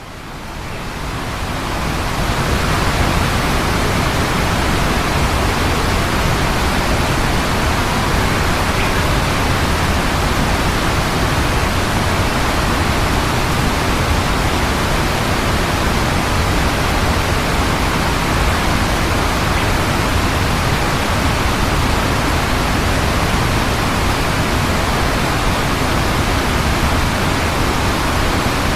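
Steady, loud rushing noise with no calls or knocks in it. It fades in over the first couple of seconds, then holds level.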